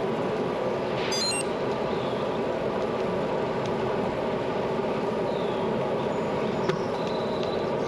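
Steady rush of wind and road noise from a bicycle moving along a road, with a brief high chirping about a second in.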